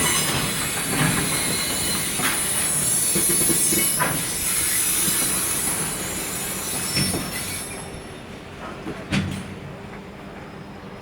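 Freight train of container wagons rolling slowly into a station, wheels squealing high and steadily until about eight seconds in, then stopping. Scattered knocks from the wheels over the rail joints, the loudest near the end.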